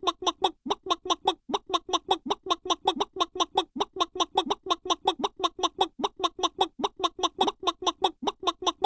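Chicken clucking sound effect: fast, evenly spaced clucks, about six a second, with brief pauses every couple of seconds.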